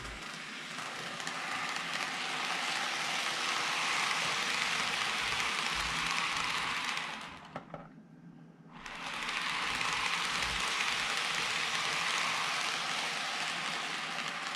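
N-gauge model train, a Greenmax Meitetsu 1000 series set with a powered car, running on track: a steady whirring hiss from the motor and the wheels on the rails. It swells as the train comes near, fades almost away for about a second just before the middle, then rises again.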